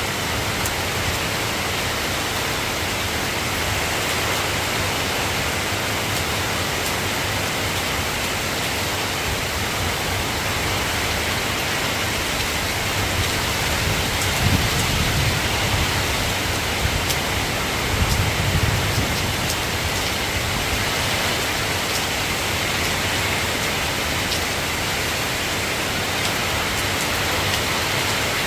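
Soft, steady rain falling, an even hiss with faint drop ticks. Two brief low rumbles come a little past the middle.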